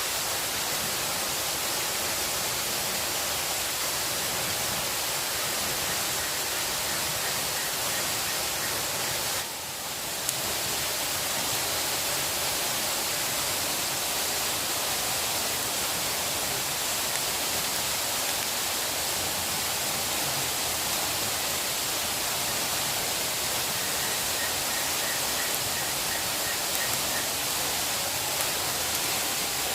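Steady rushing water noise, even and unbroken, with a brief dip about nine seconds in.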